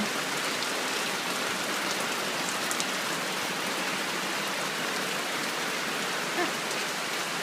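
Steady tropical rain falling, an even hiss with a few separate drop ticks about two and a half seconds in.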